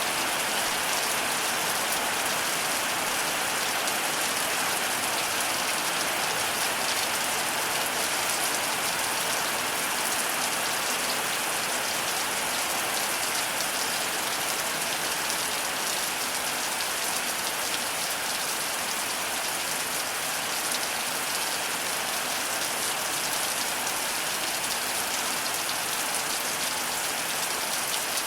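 Heavy rain falling steadily on surfaces, an even hiss without breaks.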